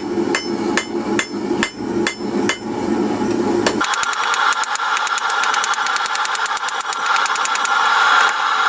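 Hand hammer striking hot steel on an anvil, drawing out a taper for a spike, with steady blows about two and a half a second. About four seconds in the sound changes abruptly to a much faster run of lighter taps.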